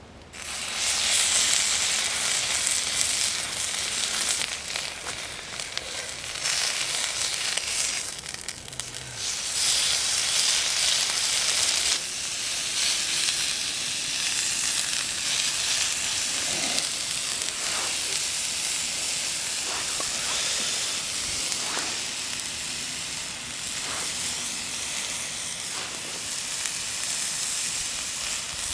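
Food sizzling in a hot pan over a campfire. It starts suddenly about half a second in, is loudest over the first dozen seconds, then settles to a steady sizzle.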